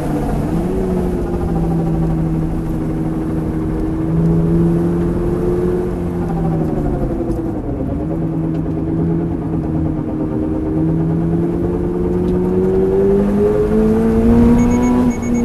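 Toyota GR86's flat-four engine running while the car is driven, its note falling and rising with road speed, with a dip about seven seconds in and a climb near the end.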